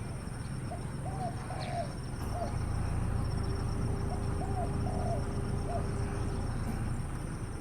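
A dove cooing: two phrases of about four coos each, over a steady low rumble.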